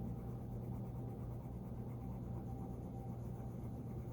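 Faint, steady scribbling of colouring in a paper savings tracker sheet, over a steady low hum.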